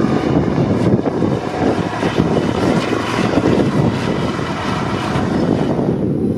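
Diesel locomotives of a freight train running by, a loud, steady engine drone.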